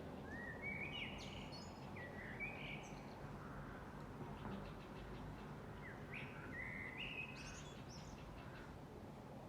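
A songbird singing two song phrases of quick, stepped notes, each a couple of seconds long, with a pause of about three seconds between them, over a steady low background hiss.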